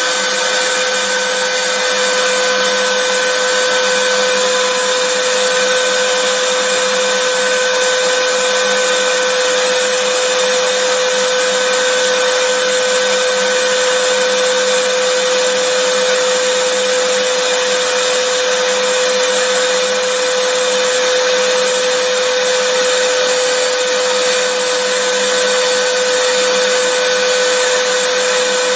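Vacuum cleaner running steadily: a constant motor whine over an even rush of air, with no change in pitch or level.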